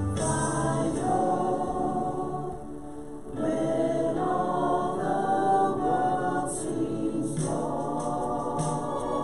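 Group of voices singing a worship song together, in long held notes, with a brief break about three seconds in.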